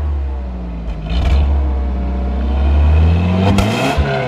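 Vehicle engine running through its original exhaust and being revved: the revs climb about two-thirds of the way through, then fall back near the end.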